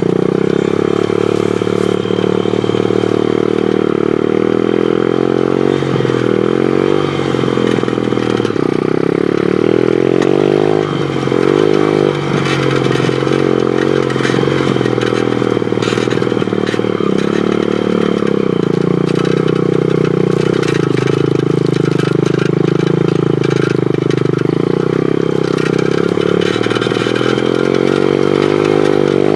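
Pit bike engine running under way, its revs rising and falling as it is ridden, with a few knocks and rattles partway through.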